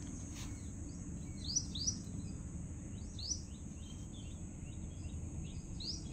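Birds chirping: several short falling chirps, the loudest a quick pair about a second and a half in, over a steady high-pitched hiss and a low background rumble.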